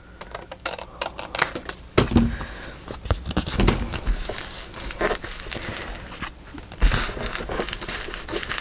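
Scissors snipping through paper, with paper rustling and handling throughout and a couple of soft knocks on the work surface.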